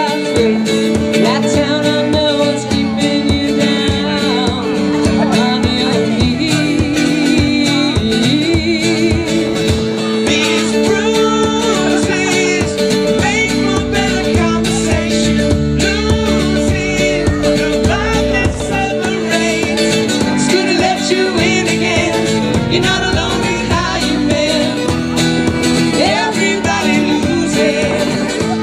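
Live performance of a country-pop duet song: guitar accompaniment with singing.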